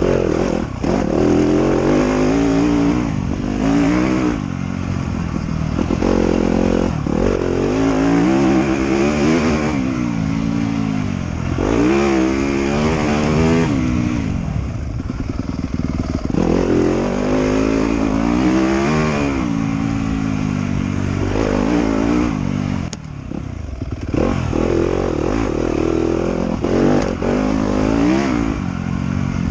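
Off-road motorcycle engine revving up and dropping back again and again, pitch rising and falling every few seconds as the rider works the throttle and gears along the trail.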